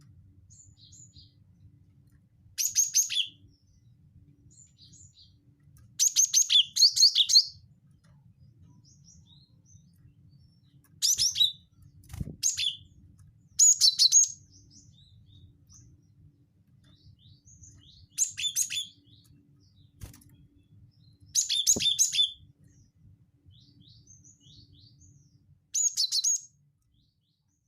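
Cinereous tit (gelatik batu) singing its 'wingko' song: short bursts of rapid, high, chattering notes repeated every two to four seconds, with faint softer calls in between, over a faint low hum.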